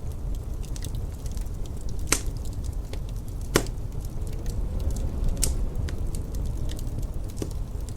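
Wood fire crackling in a fireplace, with scattered small crackles and two sharp pops about two and three and a half seconds in, the second the loudest, over a steady low rumble of wind.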